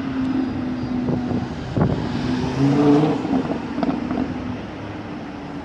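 Lamborghini Huracán's V10 engine running, with a single sharp exhaust crack about two seconds in and a brief rise in revs around three seconds. It gets quieter toward the end.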